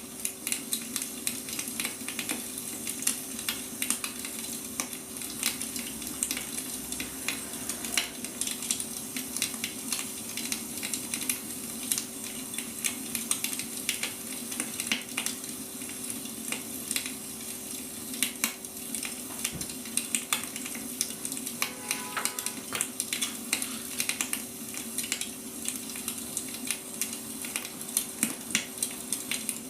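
Wood fire crackling: frequent irregular snaps and pops over a steady hiss, with a low steady hum underneath.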